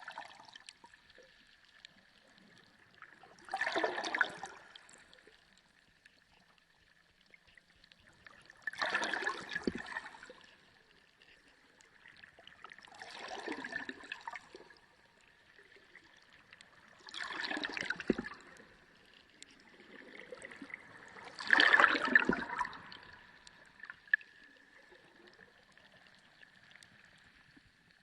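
Underwater sea sound: bursts of bubbling, gurgling water every four to five seconds, five times, over a faint steady tone.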